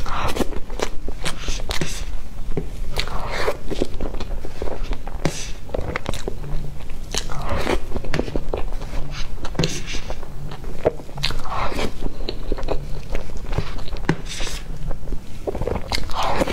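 Close-miked eating of soft cream cake with fruit filling: wet chewing, lip smacks and sticky mouth clicks, one mouthful after another.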